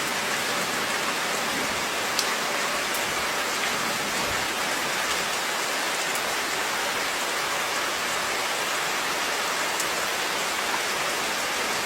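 A steady, even hiss like rain, with a few faint ticks; it starts and cuts off abruptly.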